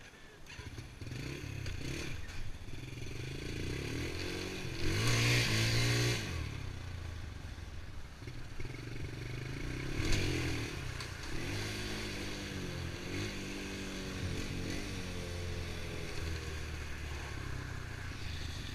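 Honda TRX90 ATV's small single-cylinder four-stroke engine running and being revved up and down several times, the hardest rev about five seconds in.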